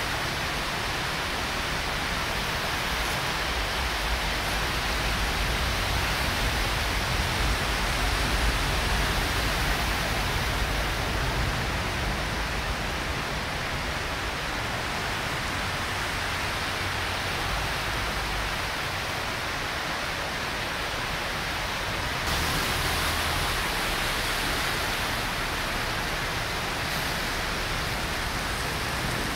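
Steady hiss of rain together with the wash of traffic moving through floodwater on a city street. A low rumble underneath fades out about 18 seconds in, and the hiss grows brighter about 22 seconds in.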